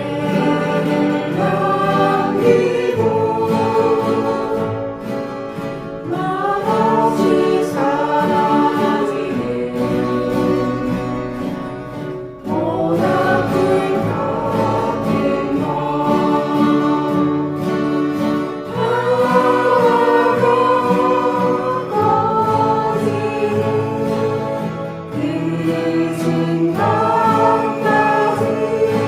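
A group of voices singing a slow folk song together while strumming steel-string acoustic guitars, in phrases of a few seconds each.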